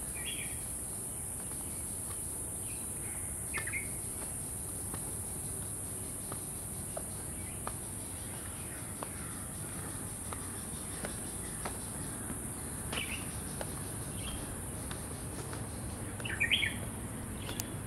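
Birds chirping in short calls now and then, the loudest cluster near the end, over a steady high-pitched hiss and a low outdoor rumble.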